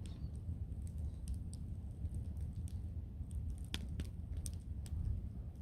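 Low wind rumble on the microphone with scattered sharp clicks and ticks, a couple of them louder near the end.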